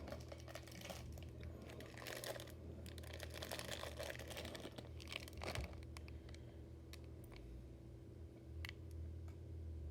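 Faint rustling and scattered small clicks of objects being handled, over a low steady hum.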